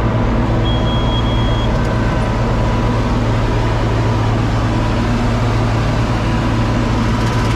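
John Deere 4250 tractor's six-cylinder diesel engine running steadily while pulling a Kuhn VB 3155 round baler through hay. A short high beep sounds about a second in.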